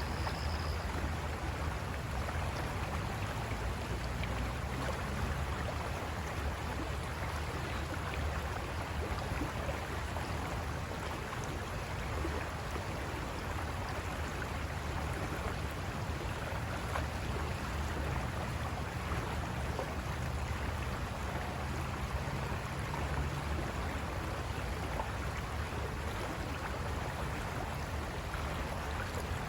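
River water rushing over rocks: a steady, even rush with a deep rumble underneath.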